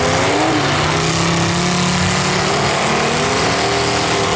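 Engines of several full-size demolition derby cars running loud and revving, their pitch rising and falling.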